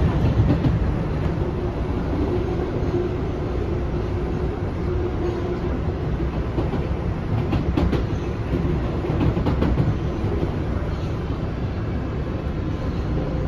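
Inside a PATH PA5 railcar running at speed: a steady low rumble of wheels on rail with a faint steady hum, and a few short sharp clicks about halfway through.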